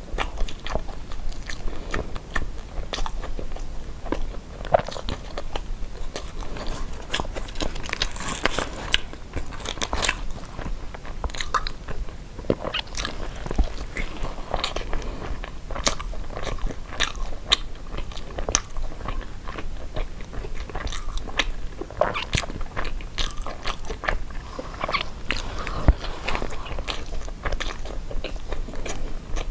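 A person biting and chewing a sticky-rice zongzi, a continuous run of many small mouth clicks.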